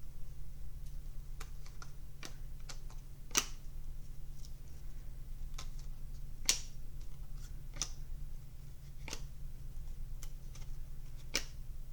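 Trading cards and card packs being handled: scattered light clicks and taps, two of them sharper, over a steady low hum.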